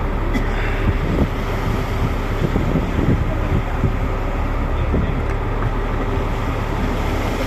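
Fishing boat's engine running steadily, with wind and rough sea noise over it and a few light knocks.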